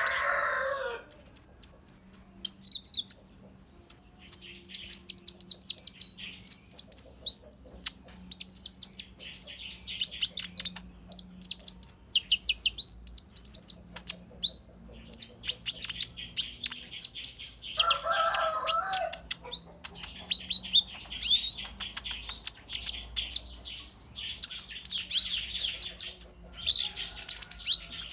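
A konin singing a fast, fluent song of high chirps and quick downward-sweeping whistles in bursts with short pauses, its song filled with white-eye (pleci) phrases. A lower, coarser call cuts in for about a second roughly two-thirds through.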